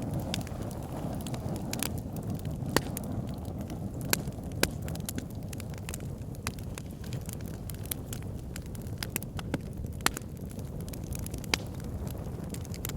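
Wood fire burning in a backyard fire pit: a steady low rumble of flames with irregular sharp crackles and pops, a few of them louder than the rest.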